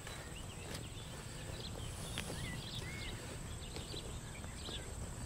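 Birds chirping in open farmland: many short calls and a few curving whistled notes, over a low steady rumble.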